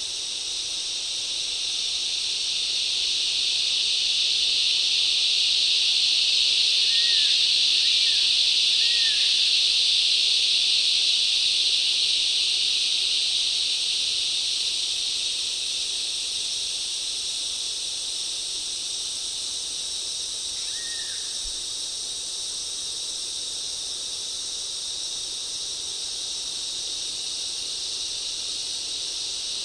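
Dense, steady insect chorus in a forest, high-pitched, swelling in loudness over the first several seconds and then easing back. A few short falling bird chirps come through about a quarter of the way in, with one more about two-thirds through.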